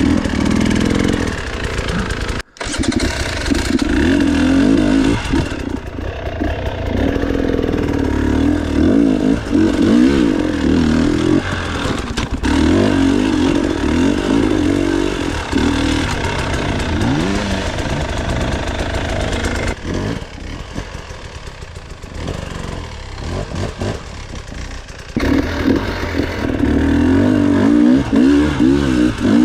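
Off-road enduro motorcycle engines revving hard and falling off again and again, the pitch sweeping up and down with the throttle. The sound cuts out for an instant about two and a half seconds in, and is quieter for a few seconds past the two-thirds mark before revving loudly again.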